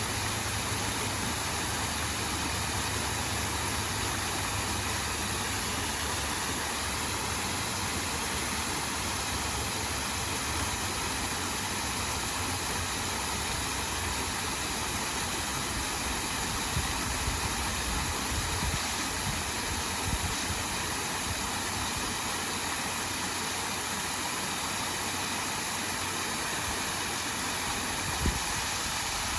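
Small waterfall cascading steadily into a pool, a constant even rush of splashing water. A few brief low bumps come in the second half.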